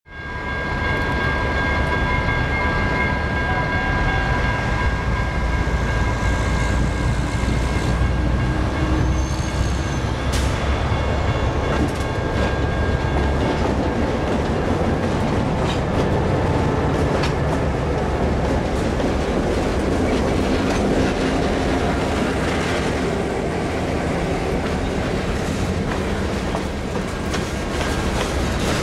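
Diesel freight locomotive passing with a heavy engine rumble and steady high tones over it for about the first half. Then a string of boxcars rolls by, its wheels clicking over the rail joints.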